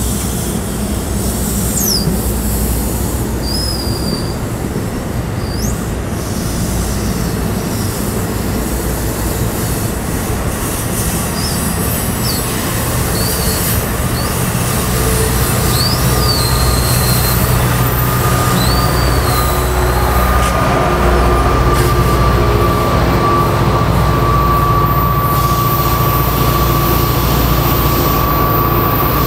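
NJ Transit multilevel commuter train rolling past on curved track: a steady low rumble of wheels on rail, broken by short high-pitched wheel squeals. About two-thirds in, the rumble grows louder and a steady high whine joins it.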